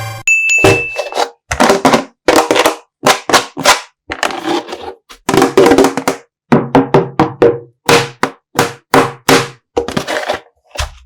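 A slime-filled plastic bag being squeezed and handled: a run of short, separate squishing and crinkling sounds, about two a second. A brief high tone sounds right at the start.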